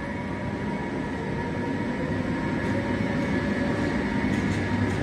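TAF double-deck electric multiple unit departing and passing close by, its wheels rumbling on the rails under a steady whine, growing louder as it gathers speed. A few light clicks come near the end.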